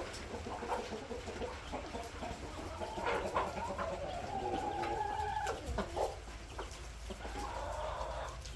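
Backyard chickens clucking and calling, a mix of short clucks and a few longer drawn-out calls about halfway through.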